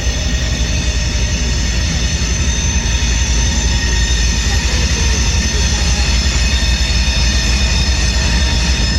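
Train rolling past at close range: a steady heavy rumble with high, thin, sustained wheel squeal over it.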